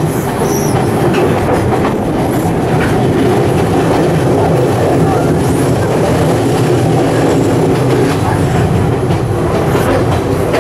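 Passenger train running steadily along the track, heard from inside the carriage by an open window.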